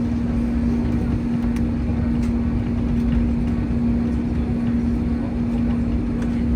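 Steady cabin noise of an Airbus A321neo: a continuous low engine and airflow rumble with a constant hum.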